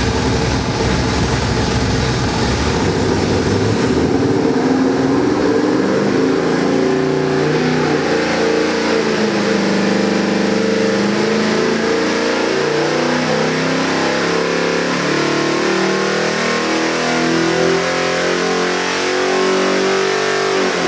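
Ford 7.3L Godzilla pushrod V8 crate engine running on an engine dyno, revving up and down repeatedly, with its pitch rising and falling from a few seconds in.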